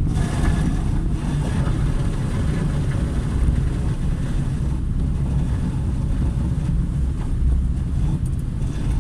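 Car driving on a rain-soaked road: steady low engine and road rumble with the hiss of tyres on wet pavement. A stronger spray hiss comes in suddenly at the start and fades by about halfway.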